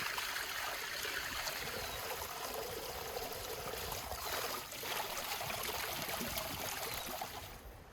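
Water pouring or running steadily, stopping shortly before the end.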